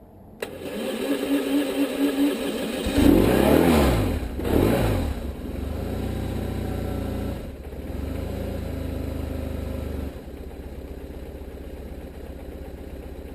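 BMW R1150RT's boxer twin being cranked over by the starter and catching about three seconds in after a flat-battery no-start, then blipped twice, each rev rising and falling. It then settles to a steady idle that drops back twice.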